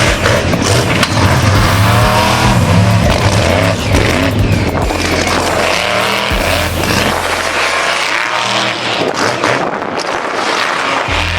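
Racing car engines revving hard, their pitch rising and falling, with loud engine and tyre noise; the low end drops away in the last few seconds.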